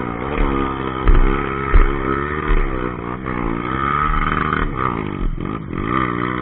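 Trail motorcycle engine running under riding load, its pitch rising and falling again and again as the throttle is opened and closed, with low thumps mixed in.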